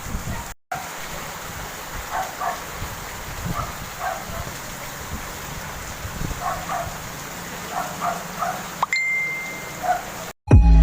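Steady hiss of falling rain, with short calls repeating in the background every second or so.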